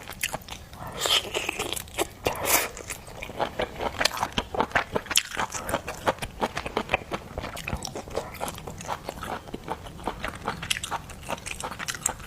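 Close-miked mouth sounds of someone eating seafood: biting and chewing with many quick, sharp, crackly clicks, and a short noisier stretch about a second in.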